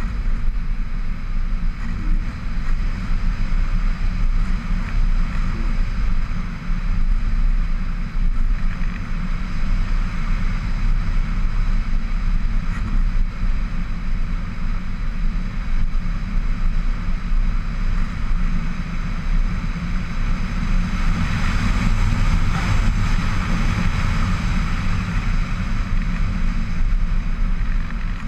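Radio-controlled model aircraft's motor and propeller running steadily, with a high whine over a low drone, and wind rushing over the onboard camera's microphone.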